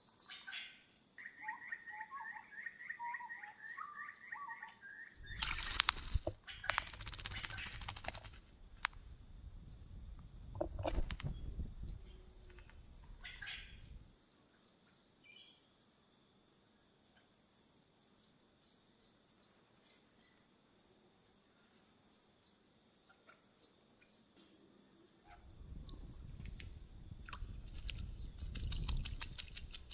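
Outdoor birdsong: a high-pitched chirp repeating about twice a second throughout, with a short warbled bird phrase near the start. Two long stretches of rushing noise come in, one in the first half and one near the end.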